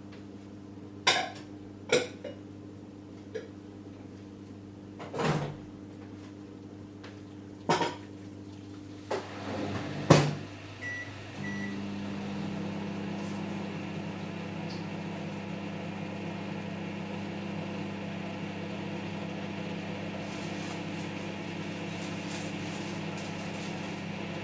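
Samsung EcoBubble washing machine partway through a cotton wash: a steady hum broken by a few separate thumps and clicks over the first ten seconds. About eleven seconds in come two short high beeps, then a louder steady motor hum with a low drone that runs on.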